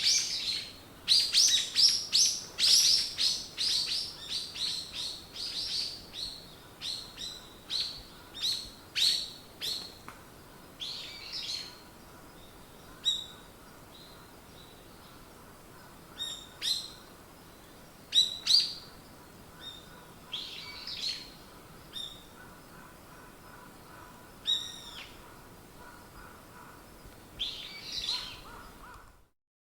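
Songbirds chirping and singing: quick high chirps and trills come thick and fast for the first few seconds, then thin out to scattered calls, and the sound drops out briefly just before the end.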